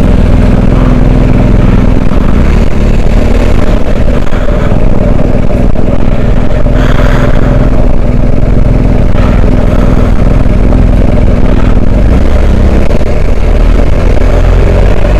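Adventure motorcycle engine running steadily while riding an off-road track, with heavy low rumble and wind noise on the microphone; the engine note changes about twelve seconds in.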